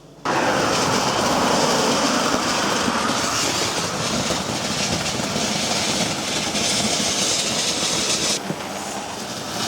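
Garden firework fountain burning with a loud, steady hissing rush that starts suddenly; its sharper high hiss drops away near the end while a lower rush carries on.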